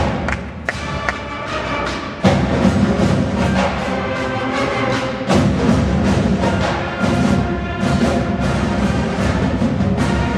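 High school marching band playing pre-game music, brass over regular drum beats. It is softer for the first two seconds, then the full band comes in loudly.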